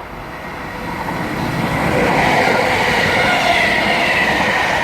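Class 319 electric multiple unit passing through the station, growing louder from about a second in and then holding steady, with wheel and track rumble under a steady whine.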